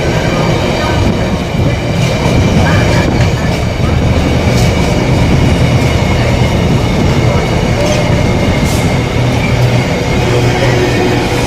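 Class 66 diesel locomotive hauling a freight train out, its engine humming steadily under the rumble of wagons on the rails, with a high squeal from brakes that are still partly on.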